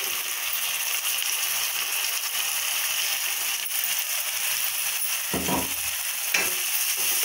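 Steady sizzling hiss of onions frying in oil in a nonstick pan as ground tomato paste is added and stirred in with a wooden spoon. A few short knocks or scrapes of the spoon against the pan come near the end.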